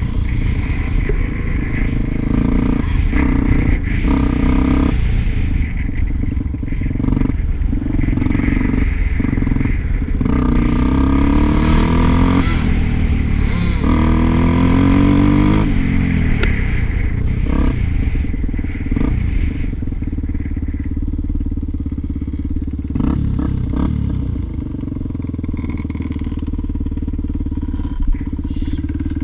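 Motorcycle engine running under load, its pitch climbing and dropping again and again as it revs up and eases off, then running steadier and a little quieter over the last several seconds.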